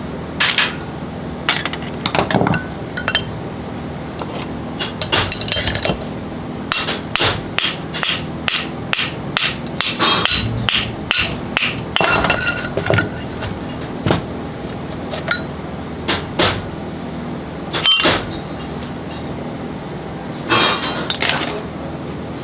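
Irregular metal-on-metal hammer taps and clinks, some in quick runs, typical of parts being knocked apart or tapped into place while an alternator is disassembled. A steady low hum runs underneath.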